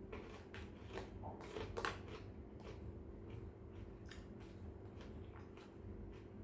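Close eating sounds: irregular small clicks and crunches of someone chewing a mouthful of fried rice with shrimp and squid, the loudest pair near two seconds in, over a faint steady hum.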